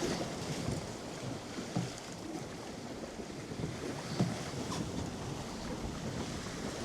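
Wind buffeting the microphone and water rushing along the hull of a Bay Raider 17 sailing dinghy under way in choppy swell, with a couple of light knocks about four seconds in.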